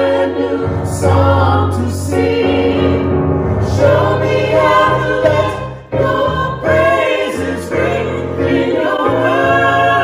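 Choir singing a hymn in several parts, with held low notes sounding beneath the voices.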